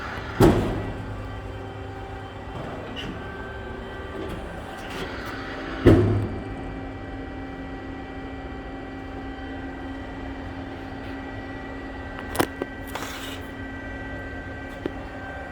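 Amada RG-80 hydraulic press brake running with a steady hum, with two heavy clunks about five seconds apart and a sharp click followed by a short hiss near the end.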